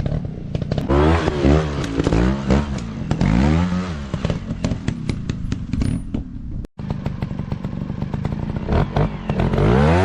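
Dirt bike engine revving up and down in repeated throttle blips, with clattering clicks over it. The sound breaks off for a moment about two-thirds of the way through.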